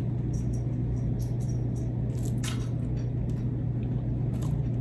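A steady low hum at one constant pitch, with a few light clicks or taps scattered through it.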